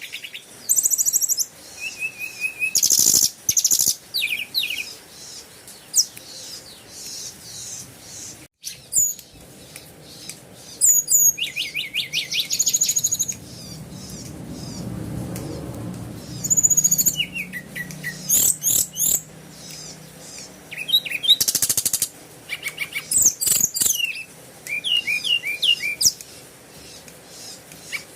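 Small birds chirping and trilling in quick, high, repeated calls, several overlapping. A faint low rumble swells and fades about halfway through.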